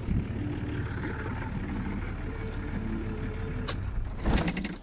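Nissan Patrol GU ute's engine idling, then switched off with the key near the end, with a short shudder as it stops. Keys jingle and click at the ignition just before.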